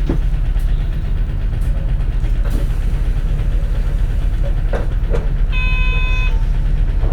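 Interior running sound of a 2004 CNG-powered city bus: its natural-gas engine and drivetrain make a steady low rumble, with a few sharp knocks and rattles from the body. A short electronic tone sounds once, about five and a half seconds in.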